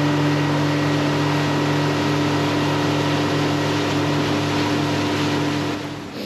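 Boat's outboard motor running steadily underway, a constant hum over the rush of wind and water. It cuts back and falls away near the end.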